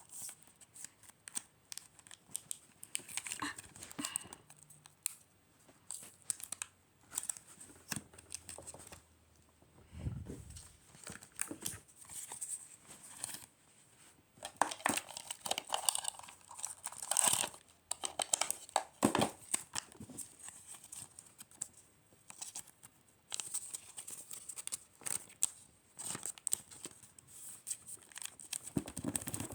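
Packaging being handled, crinkling and tearing in many short, irregular rustles and crackles, busier in the second half.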